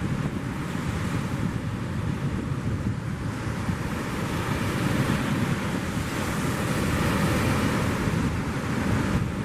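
Ocean surf breaking and washing, with wind buffeting the microphone; the wash grows louder about halfway through.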